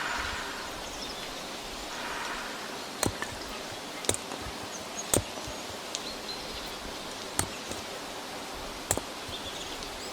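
Steady outdoor ambient hiss, broken by about six sharp, short clicks or taps spread through the few seconds.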